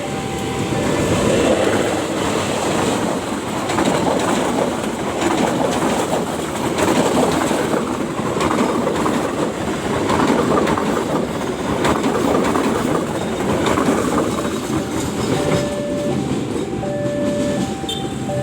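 Train passing at close range: a loud, steady rumble of wheels on rails with scattered clicks. A two-note tone alternates at the start and again near the end.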